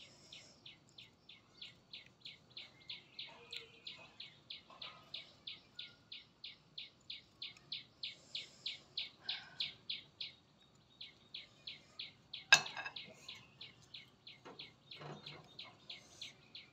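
A bird chirping over and over at an even pace, about three high chirps a second, pausing briefly after about ten seconds. A single sharp click about twelve and a half seconds in is the loudest sound.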